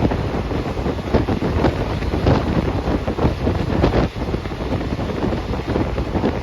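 Passenger train running along the track: a steady rumble with irregular clatter, and wind buffeting the microphone.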